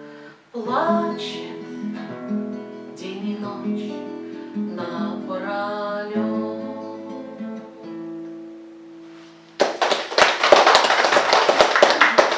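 Acoustic guitar playing the closing bars of a song, its last notes ringing out and fading. About nine and a half seconds in, applause breaks out, louder than the guitar, and carries on.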